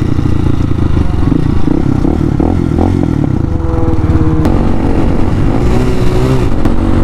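Hawk 250 dual-sport motorcycle's single-cylinder engine running under way, with wind rumbling on the mic. Near the end the engine note climbs and then drops, as on an upshift.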